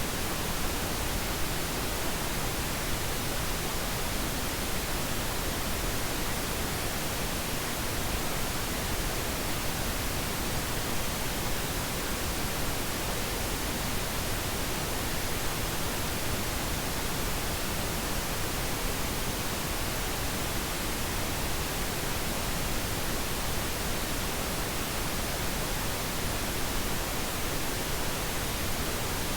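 Steady, unchanging pink noise: an even hiss across all pitches, without any breaks or events.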